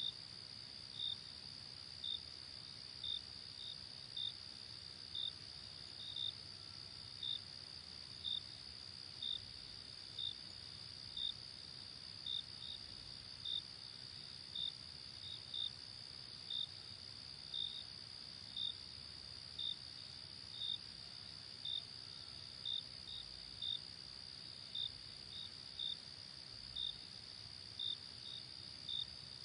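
Night insects, crickets, chirping: a steady high trill with short chirps about once a second, some in pairs, over a faint low rush.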